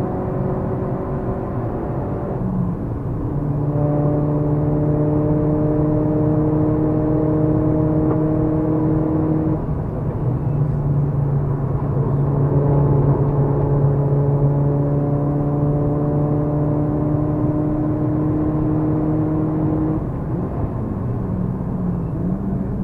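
Ford Focus RS Mk1's turbocharged four-cylinder engine pulling hard under track driving, heard from inside the cabin: a steady engine note that climbs slowly in pitch over long stretches. The note breaks off and resumes briefly about two and a half seconds in, again around ten seconds in and near twenty seconds in.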